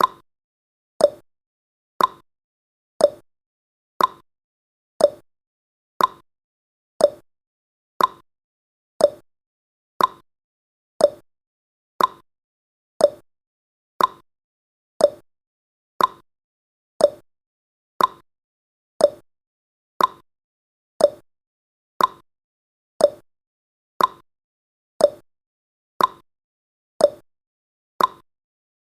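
Countdown timer's tick sound effect: one short, sharp tick every second, evenly spaced, with silence in between.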